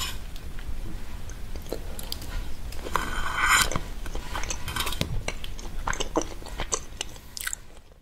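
Close-miked eating of soft marbled cake: chewing with small wet mouth clicks, and a louder scrape about three seconds in as the plastic fork works into the cake. It fades out at the end.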